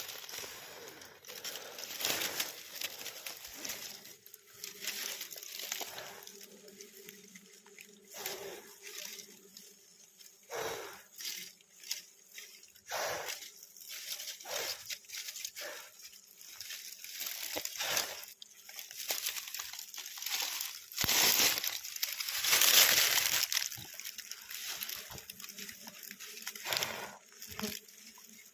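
Wild honeycomb being torn and broken apart by hand: irregular tearing, crackling and wet crunching of wax comb, with a louder stretch of tearing about three quarters of the way through.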